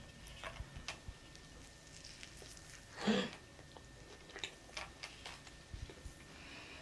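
Close-miked chewing of a beef cutlet sandwich on soft white bread: faint, scattered mouth clicks, with one louder short sound about three seconds in.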